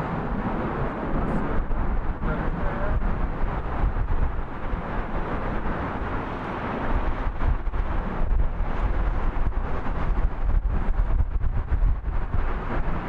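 Wind buffeting the microphone in uneven gusts over a low rumble from jet aircraft.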